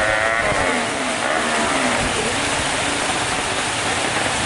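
Suzuki Satria FU motorcycle engine, bored out to 200cc, running on a wet track. Its pitch falls over about the first second, with a fainter falling note around two seconds in, over a steady hiss of rain.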